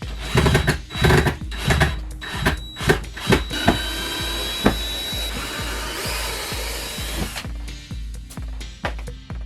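Background music with a steady beat over demolition work: sharp knocks and bangs in the first few seconds, then a power tool running with a high whine for about three and a half seconds, stopping about seven seconds in.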